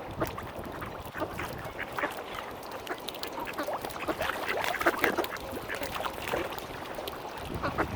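Mallard ducks quacking, with many short calls overlapping one another.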